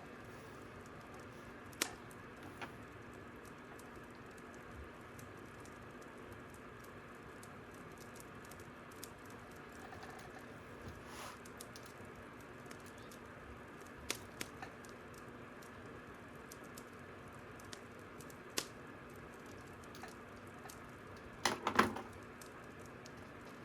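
Crackling fire: sparse, irregular pops and snaps over a soft steady hiss, with a quick burst of several pops near the end.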